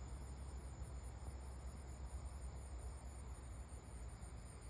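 Insects chirping in a fast, even, high-pitched pulse, about six chirps a second, over a faint low rumble.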